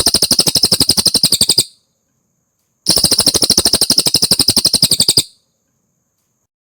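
Cililin songbird singing: a fast trill of evenly repeated notes, about a dozen a second, that breaks off about 1.7 seconds in and comes again for about two and a half seconds.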